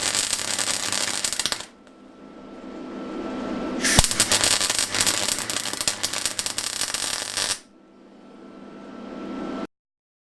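MIG welder arc crackling in two runs of welding, a short one and then a longer one starting about four seconds in, each opening with a sharp click as the arc strikes. The sound cuts off abruptly near the end.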